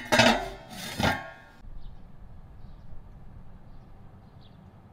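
Stainless steel stockpot lid clanking down onto the pot twice and ringing briefly, cut off suddenly about a second and a half in. Then a faint steady background with a few faint high chirps.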